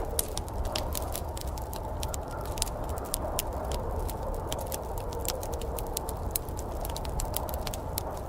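Wood fire crackling in a fireplace, with many irregular sharp pops and snaps over a steady low rush.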